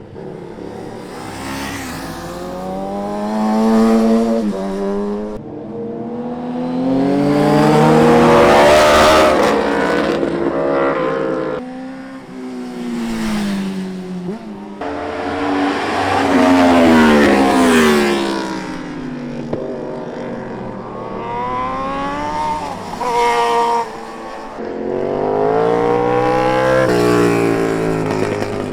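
Superbike engine accelerating hard, its pitch climbing and then dropping sharply at each upshift, then falling away as it slows, over and over as it runs between corners.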